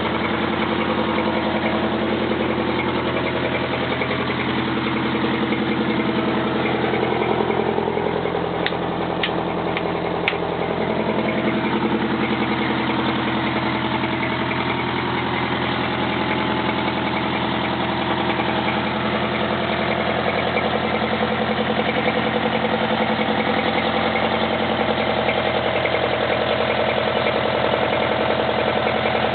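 Detroit Diesel 8V-71 two-stroke V8 diesel of a 1972 Oren pumper fire truck idling steadily, with a few sharp clicks about nine to ten seconds in.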